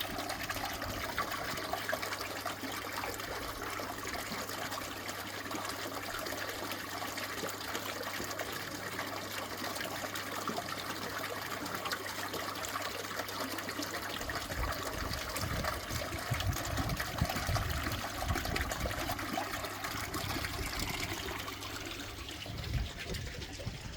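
Water running and trickling steadily, with a faint low hum in the first half and a low rumble in the second half.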